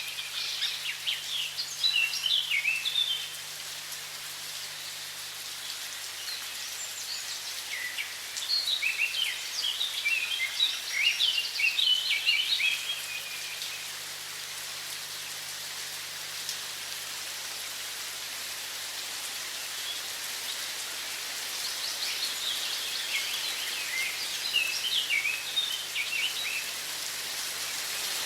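Steady hiss of running water with songbirds singing over it in three bursts of quick chirping notes: at the start, again from about 8 to 13 seconds, and again near the end.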